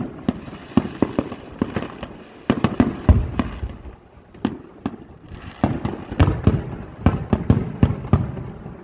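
Fireworks bursting overhead: a rapid, irregular run of sharp bangs and cracks, each with a rumbling echo, with a short lull midway and then a dense cluster of reports.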